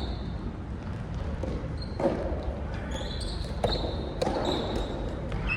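Doubles rally on an indoor court: a few sharp ball-on-racket or ball-on-floor knocks, with short high shoe squeaks between them.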